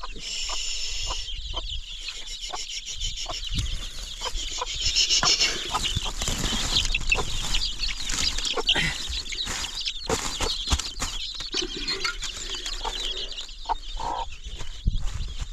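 Chickens clucking and cheeping, with many short knocks and clatters throughout.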